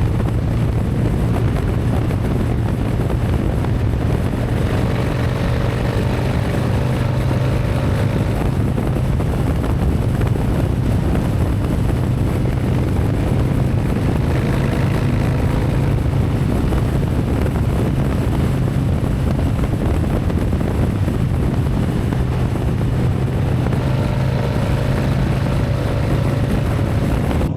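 Harley-Davidson V-twin motorcycle cruising at a steady speed, its engine holding an even drone with wind rushing over the rider's microphone.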